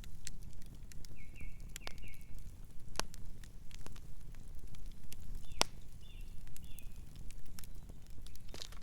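Campfire crackling, with irregular sharp pops over a low steady rumble. A night bird chirps softly in two short runs of calls, about a second in and again around the middle.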